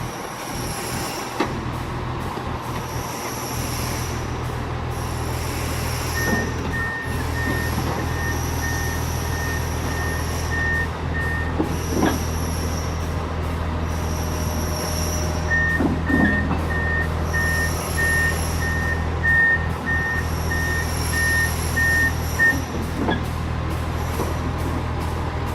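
A heavy vehicle's reversing alarm beeping about twice a second, in two runs of several seconds each, over the steady drone of a running engine. A few brief squeals and knocks come through about halfway and near the end.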